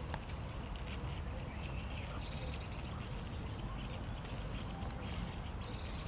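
Birds chirping in quick high-pitched runs, about two seconds in and again near the end, with scattered short calls between, over a steady low rumble.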